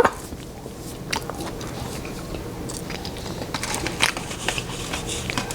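A person chewing a hot mouthful of food, with scattered short wet clicks and crunches from the mouth.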